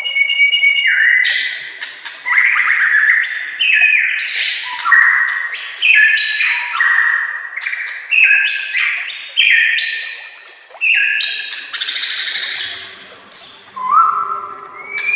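White-rumped shama (murai batu) singing a long run of loud, varied phrases. Each phrase is a quick string of whistles, slides and sharp notes that jumps in pitch, and there are short breaks between phrases.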